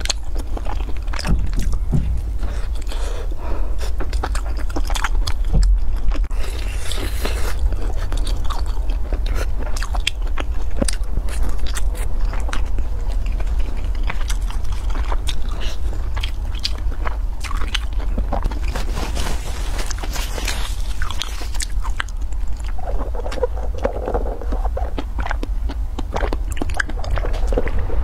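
Close-miked eating sounds: crisp fried food being bitten and chewed with many sharp crunches. A wooden stick scrapes a paper food tray, over a steady low hum.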